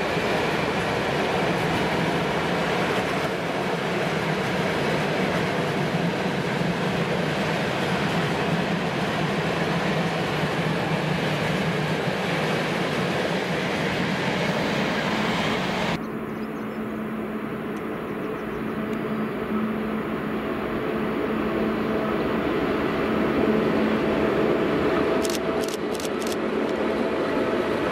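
Loaded freight wagons rolling past at speed, a steady rumble of wheels on rail. About halfway in it gives way to a 201E (ET22-class) electric locomotive hauling open wagons, approaching with a steady hum and a quick run of clicks near the end.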